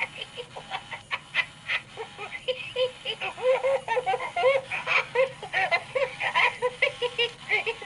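Gemmy animatronic bunny's sound chip playing a high-pitched, cartoonish laughing voice track through its small speaker in quick repeated bursts, with a few short clicks.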